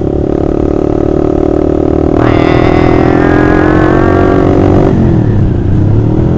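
Honda CBR150R's single-cylinder engine running through a loud, free-flowing Austin Racing aftermarket exhaust, held at steady revs under way. It grows louder and harsher for about three seconds in the middle, then the throttle closes and the revs dip and pick up again near the end.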